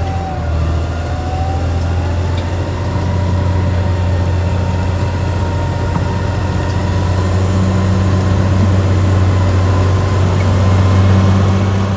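Caterpillar D6R XL bulldozer's diesel engine running steadily under work, with a steady whine above the low drone. It grows slightly louder near the end.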